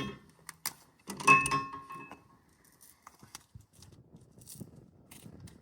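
Metal clinking and rattling, with one loud ringing clink about a second in, then quieter handling rustles.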